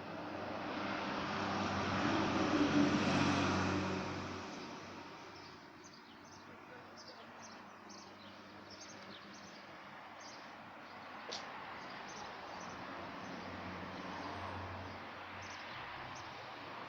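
A passing motor vehicle swells and fades over the first few seconds. Then a bird gives a run of short, high chirps, followed by a sharp click.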